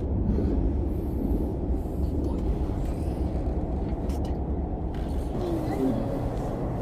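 Steady low rumble of an SRT high-speed train running, heard inside the passenger carriage. Faint voices can be heard about two-thirds of the way in.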